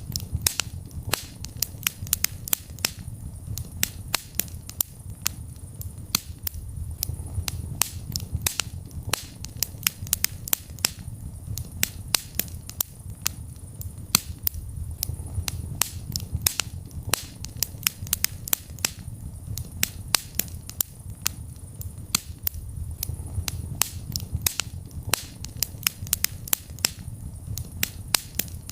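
Wood fire in a fireplace burning and crackling, with frequent sharp irregular pops and snaps over a low, steady rumble of the flames that swells and fades slowly.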